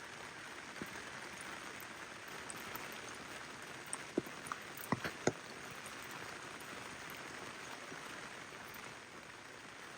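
Steady rain falling, with a quick cluster of louder, sharp drops striking close by about four to five seconds in.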